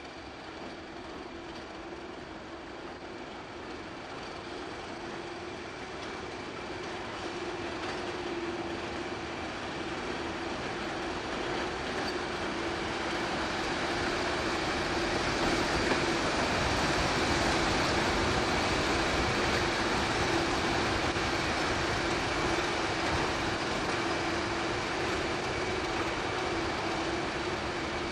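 A train moving through the station, its rumble growing steadily louder to a peak about two-thirds of the way through and then easing a little, with a steady hum underneath.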